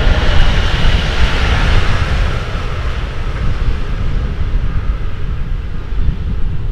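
Electric regional passenger train running away along the track, its rolling noise and a faint whine fading as it recedes, under heavy wind noise on the microphone.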